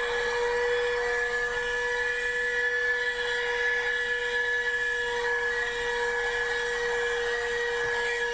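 TUSA vacuum cleaner running steadily: a constant motor whine over a hiss of rushing air.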